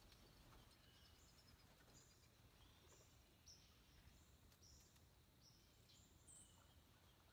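Near silence, with faint, short high-pitched bird chirps scattered irregularly through it.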